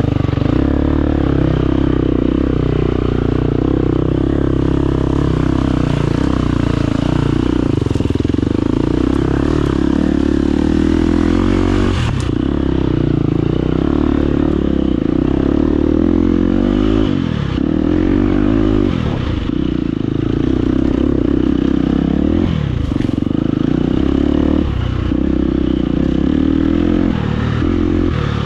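Husqvarna FE250 single-cylinder four-stroke enduro engine under load, held at steady revs for the first twelve seconds, then repeatedly dropping and picking up again as the throttle is closed and reopened. Clattering and scraping mixes in throughout.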